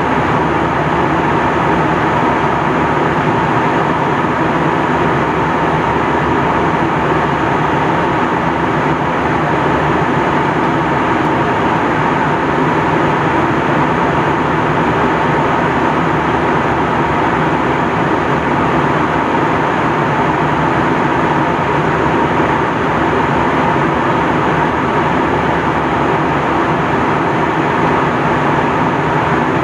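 Steady cabin noise inside an Airbus A321 in flight: an even rush of engine and airflow noise with a constant hum running through it, unchanging throughout.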